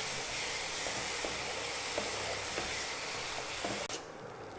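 Thick tomato masala sizzling in oil in a nonstick kadai while a wooden spatula stirs it, with a few faint scrapes against the pan. The masala is fully fried, the oil separating at its edges. The sizzle drops off suddenly about four seconds in.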